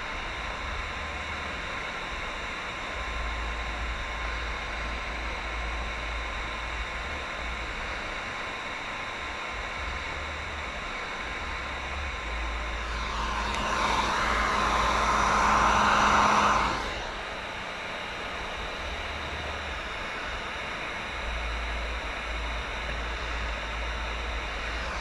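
Heat gun blowing hot air, a steady hiss with a faint hum, while tint film is heated to shrink out a lifted edge. The hiss swells louder for a few seconds past the middle and then drops back suddenly.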